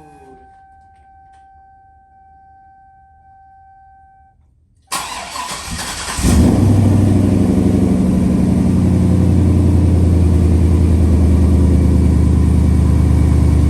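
Chevrolet Silverado SS pickup cold-started in freezing weather. A steady high tone sounds for a few seconds, then the starter cranks for about a second, the engine catches, and it settles into a loud, steady idle.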